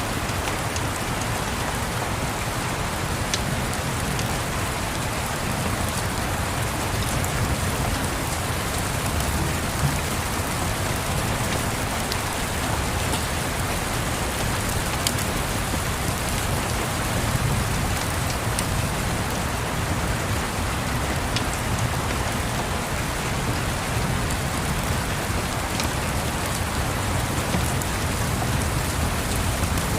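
Steady rain falling, an even hiss with a low rumble underneath and a few faint sharp ticks scattered through it.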